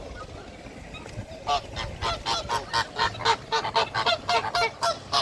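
Goose honking in a rapid series of loud calls, about four a second, starting about a second and a half in.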